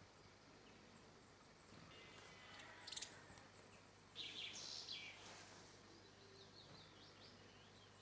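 Faint calls of small wild birds: a few short, high chirps near the middle, over a quiet outdoor background.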